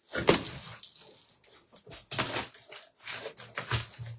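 Cardboard box layers and sellotape being pulled apart and handled, with irregular crackling and rustling and a sharp rip just after the start.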